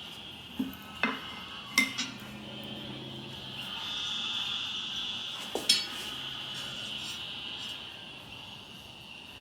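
A few sharp metal clinks, the loudest about two seconds in and again near the middle, over a steady hiss: steel and smithing tools being handled.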